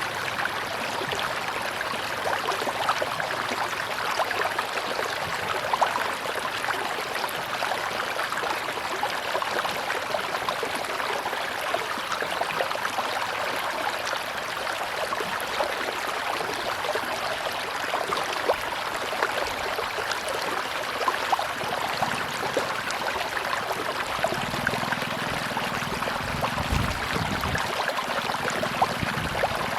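River water rushing and babbling steadily, with small splashes scattered through it. A low rumble joins in near the end.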